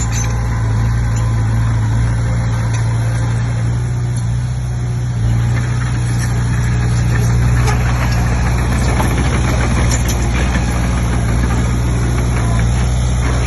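Komatsu D20P bulldozer's diesel engine running steadily with a deep, even hum and some light mechanical clatter.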